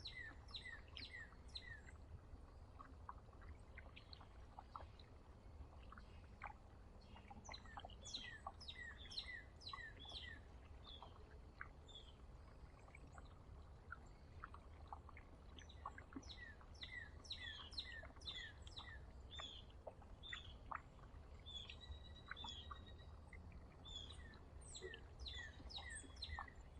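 Songbirds chirping and calling: many short, high chirps, often in quick runs, over a faint low rumble.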